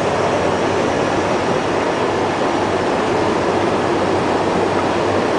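Steady road and engine noise inside the cab of a moving truck.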